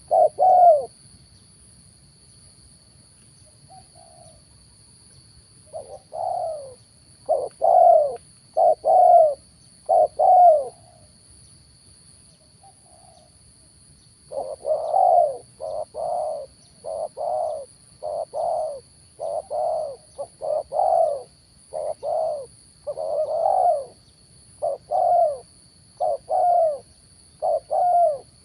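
Spotted dove cooing in repeated low coos: a few right at the start, a pause, a short run of about six, then a longer run of coos a little faster than one a second through the second half.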